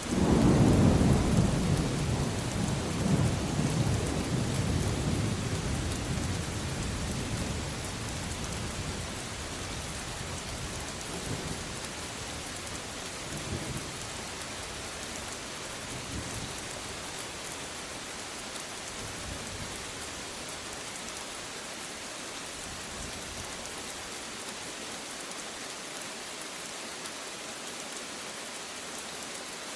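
Steady rain with a thunderclap right at the start that rolls and rumbles away over about eight seconds, followed by a few fainter rumbles of thunder in the middle.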